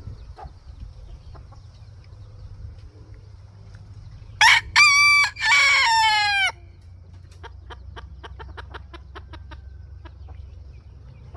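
Black-breasted red bantam Phoenix rooster crowing once, a short first note followed by longer held notes, the last one falling away. A run of quick, short clucks follows.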